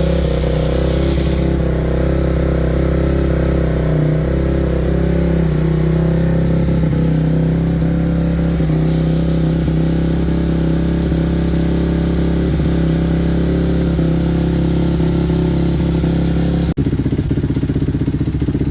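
A 2006 Honda CRF250X's single-cylinder four-stroke engine idling steadily on choke soon after a cold start, loud enough for a four-stroke. Near the end the sound dips for an instant and then changes abruptly.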